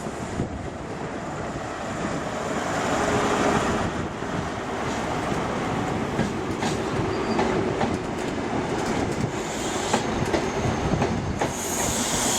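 Northern Class 331 electric multiple unit moving through the station with a continuous rumble, its wheels clicking a few times over rail joints in the second half.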